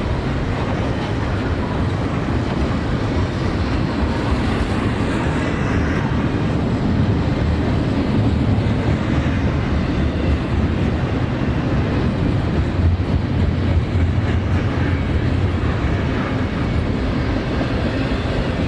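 CSX intermodal freight train rolling past at track speed, a steady rumble of cars on the rails.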